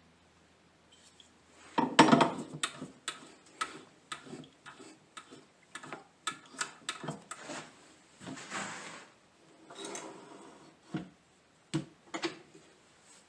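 Irregular clicks, knocks and short scrapes of hand work on a briar pipe bowl and its tools, with no machine running. The loudest knock comes about two seconds in.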